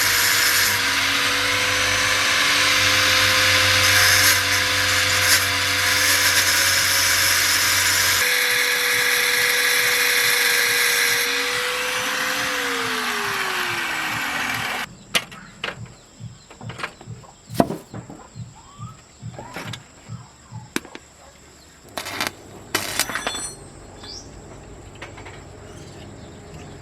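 A power tool runs steadily, then its pitch falls as it spins down and stops about halfway through; scattered light clicks and knocks follow.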